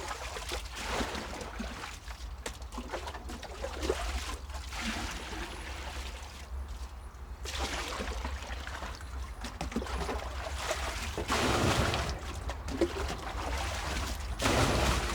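Water pouring and trickling into a container in uneven spells, as containers of rainwater are topped up.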